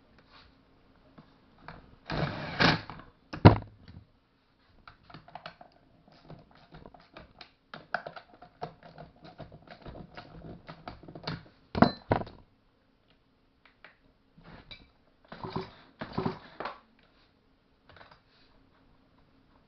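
Irregular light clicks and taps of hand tools and small chainsaw parts being handled on a workbench. There are a few louder clattering knocks: about two seconds in, once more shortly after, near the middle, and a rattly clatter near the end.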